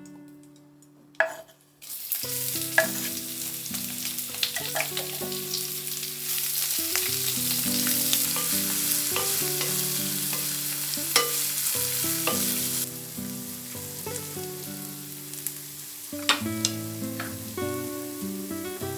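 Food frying and sizzling in a hot pan while being stirred with a utensil, which clinks against the pan a few times. The sizzle starts about two seconds in and eases off past the middle.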